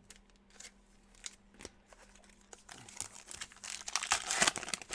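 Trading-card pack wrapper crinkling and being torn open, loudest in the last second and a half. Scattered light clicks of card and wrapper handling come before it.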